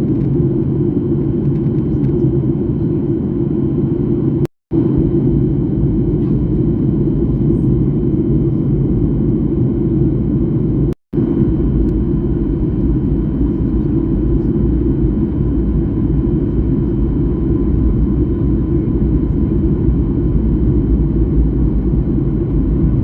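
Airliner cabin noise in flight: the steady, loud low rumble of jet engines and airflow around the fuselage. It cuts out to silence briefly twice, about four and a half and eleven seconds in.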